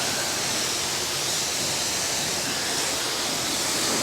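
A self-serve car wash's high-pressure wand spraying hot soapy water against a truck: a steady hiss of spray that does not let up.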